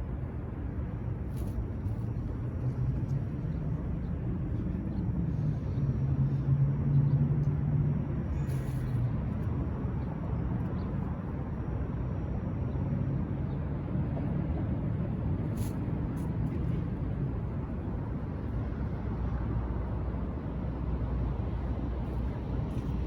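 Low, steady rumble of motor-vehicle engine noise, swelling to its loudest about six to eight seconds in as a vehicle passes close by, then settling back to a steady drone.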